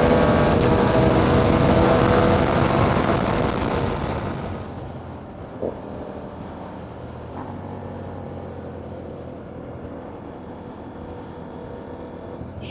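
KTM Duke 890R's parallel-twin engine, breathing through a catless Austin Racing exhaust, running hard at high revs. The throttle closes about four seconds in and the engine drops to a much quieter, low run for the rest, with one brief click partway through.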